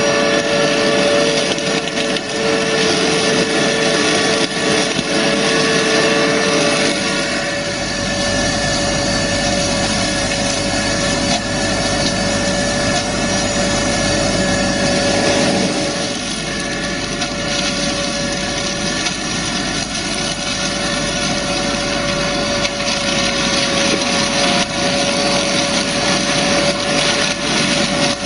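Farm tractor engine running steadily with a tractor-mounted shrub trimmer attachment working, giving a continuous mechanical drone with a steady whine. The tone shifts about seven seconds in and again about sixteen seconds in.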